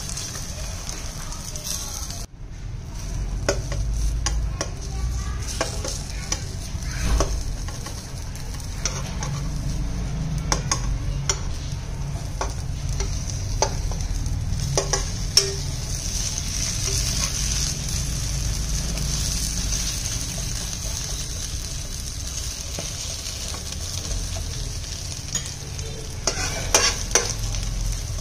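Egg and onion omelette sizzling in oil in a frying pan, with scattered clicks and scrapes of a metal spatula and spoon against the pan as it is rolled, several close together near the end.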